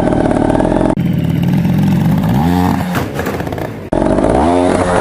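Beta Rev 3 trials motorcycle engine revving sharply twice, the pitch sweeping up each time as the clutch is popped to launch the bike up onto an obstacle. The sound cuts abruptly twice between shots.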